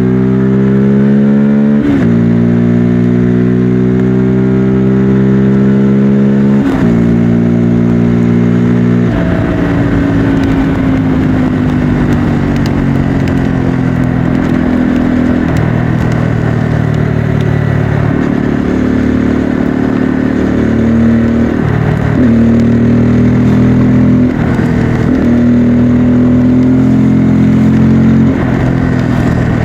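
Bajaj Pulsar N250's single-cylinder engine and exhaust under way: the pitch climbs under acceleration and drops sharply at two upshifts in the first seven seconds, then holds at a steady cruise with brief dips as the throttle eases off.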